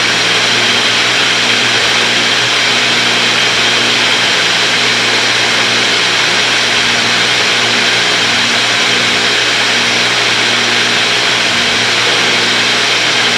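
Cessna 310's twin piston engines and propellers droning steadily in flight, picked up through the cockpit intercom.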